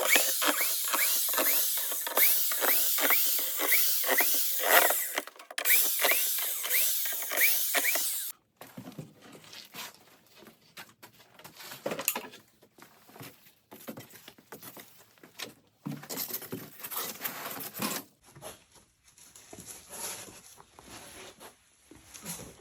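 Packaging being torn and pulled off a delivery box: loud, rapid scratchy ripping for about eight seconds, then after an abrupt cut, quieter crinkling and rustling.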